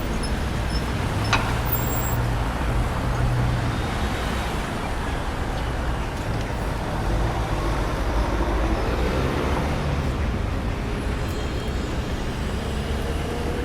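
Road traffic: a steady rumble of passing vehicles with engine drone, and a brief sharp click about a second in.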